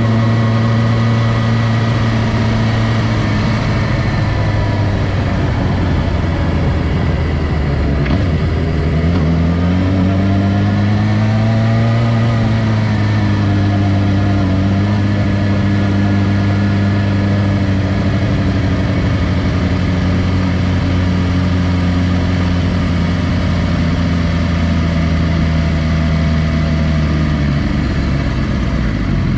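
Suzuki GSX-R600's inline-four engine running at low revs as the bike rolls slowly. The engine note holds steady, falls about eight seconds in, climbs back by about twelve seconds, then settles again and drops slightly near the end.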